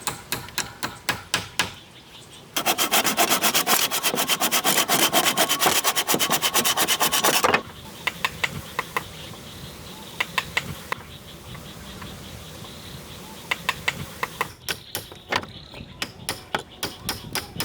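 Wood being worked by hand: a run of quick, sharp taps, then a loud stretch of very rapid rubbing or rasping strokes on wood lasting about five seconds, then taps again.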